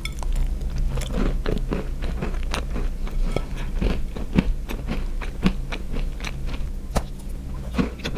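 Close-miked biting and chewing of a yellow-cheese chocolate-chip cookie: a bite, then steady chewing with many small crunches and mouth clicks.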